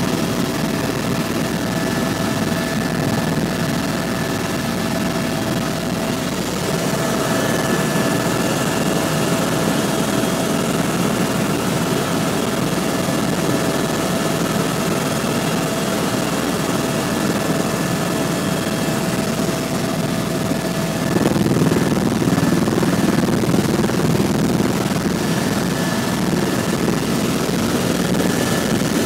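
Helicopter in flight: steady rotor and engine noise with a high, steady whine over it. About 21 s in, the whine drops away and the noise grows slightly louder and fuller.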